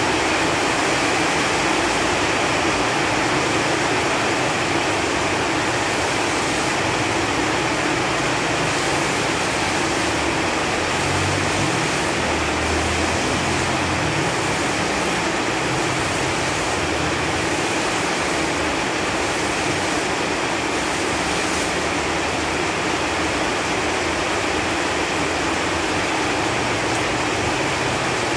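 Rain falling steadily on leaves, a dense, even hiss of drops.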